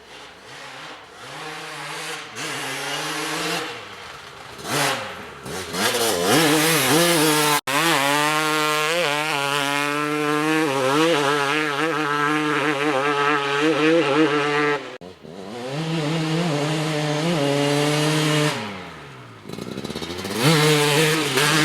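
2004 Kawasaki KX250's single-cylinder two-stroke engine ridden hard, revving up and down with its pitch rising and falling repeatedly. The sound breaks off abruptly twice, about 8 and 15 seconds in.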